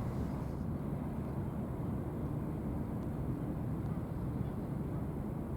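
Steady low rumble of a cross-Channel ferry's engines, even and unbroken.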